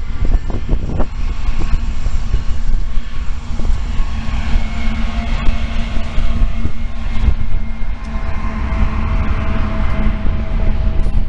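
Union Pacific diesel freight locomotives running past at close range, followed by the steady rumble of a passing double-stack intermodal train's cars on the rails.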